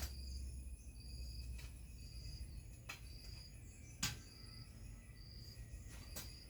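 Faint nature ambience: short high chirps repeat about once a second over steady thin high tones and a faint low rumble, with a few sharp clicks.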